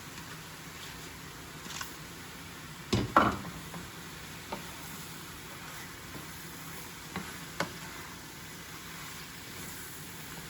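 Mushrooms frying in an oily onion-tomato masala in a pan, a steady soft sizzle, while they are stirred. The stirring utensil knocks and scrapes against the pan a few times, loudest about three seconds in.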